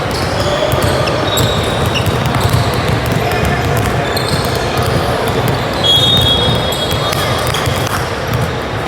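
Basketball game sounds in a gym: a ball bouncing on the court, a few short high squeaks from sneakers, and the steady chatter of spectators.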